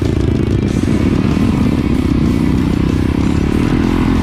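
Trail dirt bike engine running while being ridden, its rapid firing pulses uneven, settling into a steadier tone near the end.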